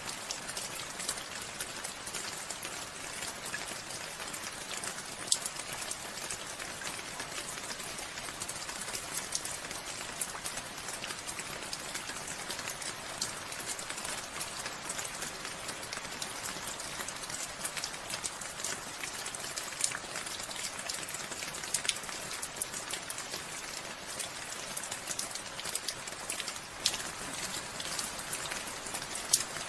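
Steady rainfall, with many individual drops ticking sharply on a surface over the constant hiss.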